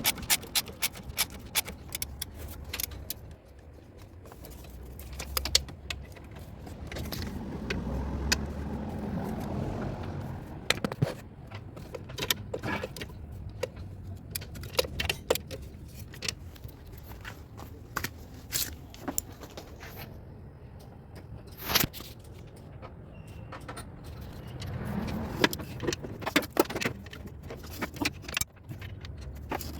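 Metal tools and parts clinking and clicking during hands-on repair work on a car, in many short sharp clicks, with a low rumble swelling twice.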